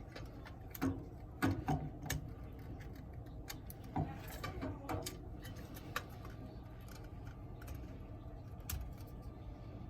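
Light clicks and taps of small metal parts being handled as a replacement dryer thermostat is put back in place, a few seconds apart, over a low steady hum.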